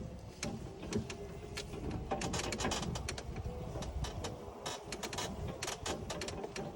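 Small vehicle driving slowly over rough ground, running steadily, with many clicks and rattles from its body and load.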